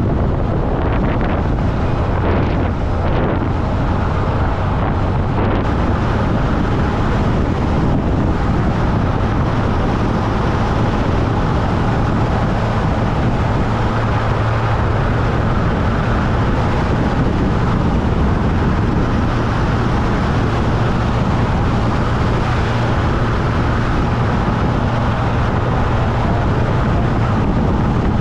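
Classic car cruising on the highway: a steady engine drone with tyre and wind noise. The drone rises slightly in pitch about six seconds in.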